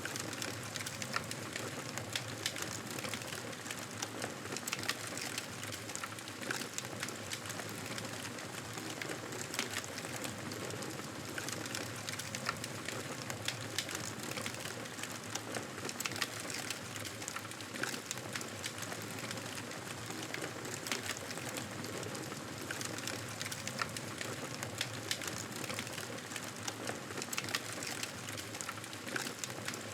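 Wood fire crackling steadily, with many small sharp pops over a constant hiss.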